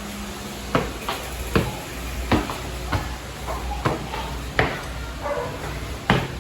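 Footsteps climbing a staircase: about eight evenly spaced steps, one every three quarters of a second.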